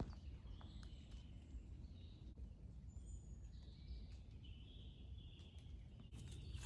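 Faint birds chirping in woodland: short chirps and whistled calls scattered through, over a low steady background rumble.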